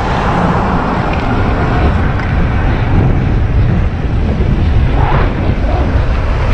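Wind buffeting the microphone of a rider on a moving electric bicycle: a loud, unsteady rush of wind noise with no clear motor tone.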